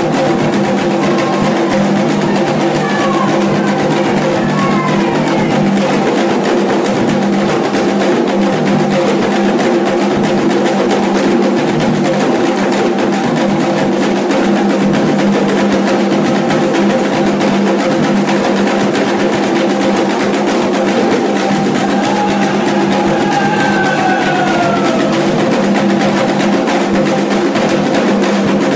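Candomblé ritual music: fast, dense drumming on hand drums under several steady sustained tones, with a few brief sliding pitches.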